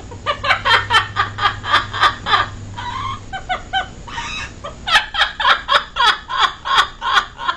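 A bird's rapid cackling calls, about four a second, in two bouts with a short break near the middle.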